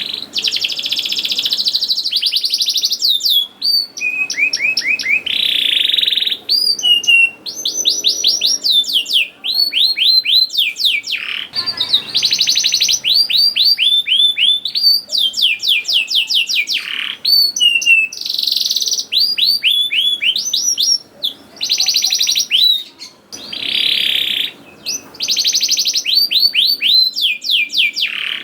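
Canary singing a long, almost unbroken song: fast trills of repeated falling whistled notes alternating with buzzy rolled phrases, with only short breaks.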